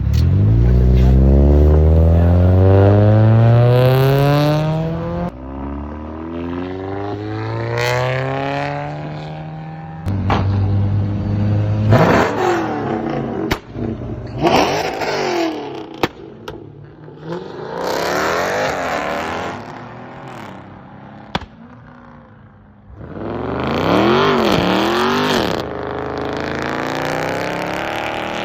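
Car engines revving and accelerating. The first one climbs in pitch for about five seconds, then come more climbs and a series of sharp revs that rise and fall, several of them in the second half.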